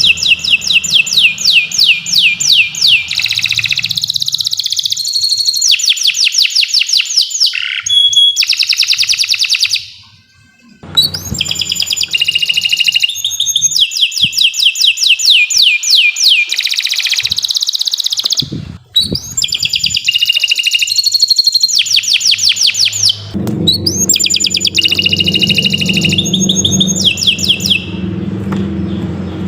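Domestic canary singing a long, continuous song of rapid repeated trills, each phrase a quick run of identical sweeping notes before switching to the next. There is a short pause about ten seconds in and a brief break near nineteen seconds.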